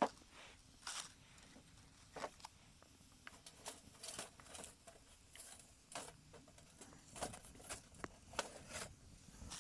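Wood fire crackling in a small hobo stove, faint, with irregular sharp pops and snaps several times a second.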